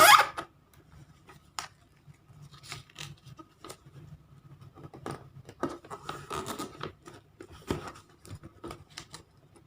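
A sheet of origami paper being folded and creased by hand: a loud rustle that stops about half a second in, then soft, scattered rustles and scrapes of the paper.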